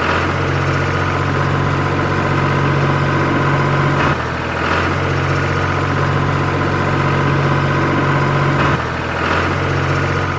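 Engine idling steadily, a low even running sound with a sudden small shift in tone about every four and a half seconds.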